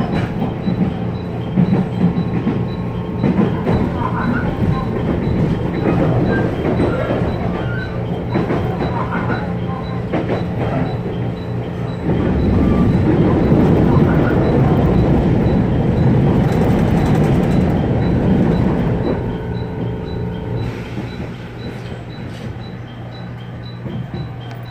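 A train running on its rails, heard from on board: a steady rumble with a low hum. The rumble swells for several seconds in the middle and eases off near the end.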